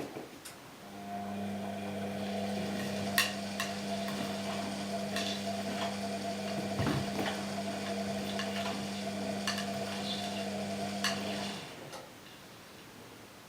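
Washing machine drum motor running in a wash cycle: a steady hum that starts about a second in and stops after about eleven seconds, with scattered clicks and clinks of things knocking about in the turning drum.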